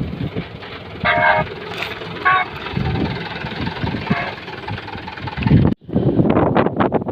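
Truck engine running, with a few short high steady tones over it about a second and two seconds in, and a sudden brief cut-out near the end.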